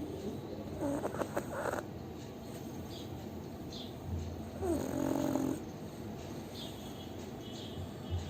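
Pug snoring in its sleep: two snores about four seconds apart, each a rough, rattling breath lasting about a second.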